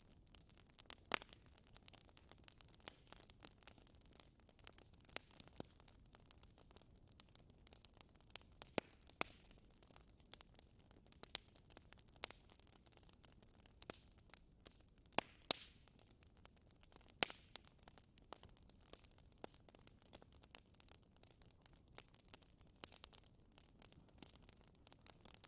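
Wood fire crackling in a fireplace: irregular sharp pops and snaps, a few louder than the rest, over a faint hiss.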